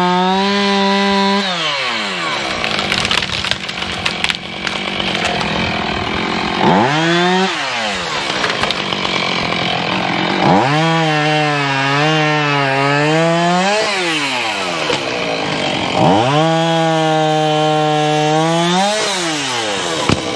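Small chainsaw revved to full throttle four times and dropping back to idle in between, the first a short blip; during the longer runs the pitch sags and wavers as the chain bites into wood.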